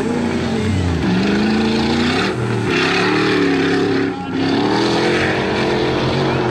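Off-road race car engine revving hard, its pitch rising and falling repeatedly through the gears, with a brief drop in loudness about four seconds in.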